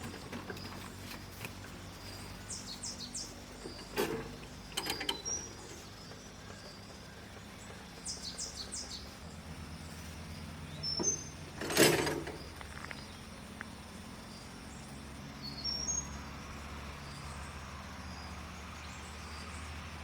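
Quiet outdoor ambience with scattered short, high bird chirps over a steady low hum. A couple of brief knocks come about four and five seconds in, and a louder short clatter about twelve seconds in.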